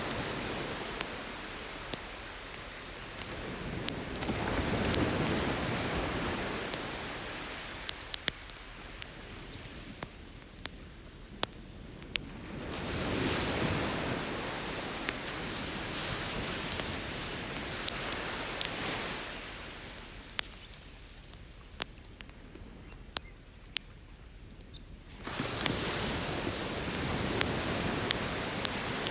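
Ocean waves washing ashore in slow swells several seconds apart, with a wood campfire crackling and popping in short sharp snaps throughout.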